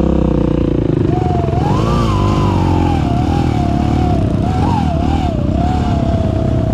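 Kawasaki KLX single-cylinder trail-bike engine running, with a high whine that rises and falls with the revs, like an electric motor. The riders take the whine as usually a sign of a worn starter one-way clutch.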